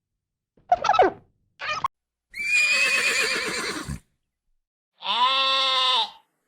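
A string of separate farm-animal calls, each starting and stopping abruptly with silence in between: two short falling calls in the first two seconds, a long harsh call, then a steady, even-pitched call about five seconds in.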